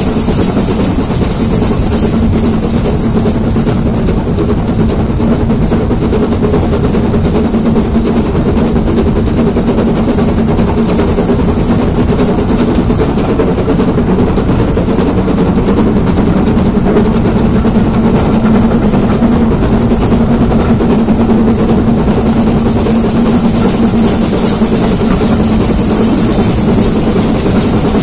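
Steam-hauled heritage train running steadily, heard from an open carriage window: a continuous loud rumble of the coaches on the track with a steady hum under it.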